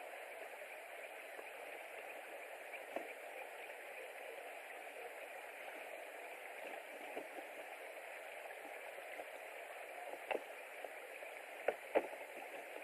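Steady outdoor hiss on the nest camera's microphone, with a few sharp ticks, two of them close together near the end.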